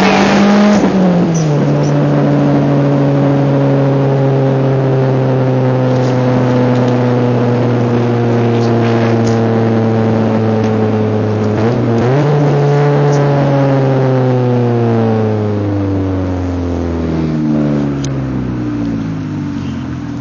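Mazdaspeed Protege's turbocharged 2.0-litre four-cylinder heard inside the cabin, its exhaust loud and droning because the exhaust is snapped. Engine speed climbs briefly, drops about a second in, then slowly falls; it rises again a little past halfway, then falls away and gets quieter near the end.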